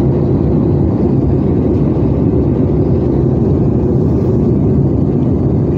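Steady, loud cabin noise of an Airbus A320 on approach for landing: the low rumble of its CFM56 engines and the airflow over the fuselage, heard from inside the cabin.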